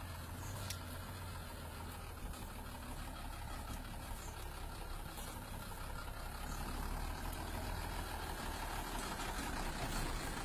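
Truck engine running steadily with a low rumble, growing a little louder in the second half.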